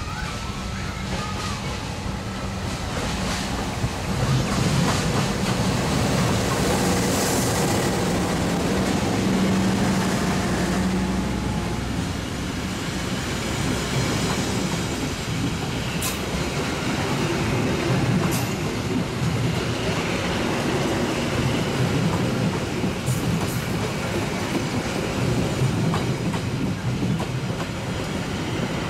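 A passenger train running past on its wheels and rails, a continuous loud rush that grows louder about four seconds in.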